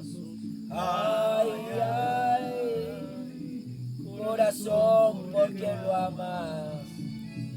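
A man singing a ranchera with acoustic guitar accompaniment, the voice entering about a second in and fading out shortly before the end while the guitar carries on.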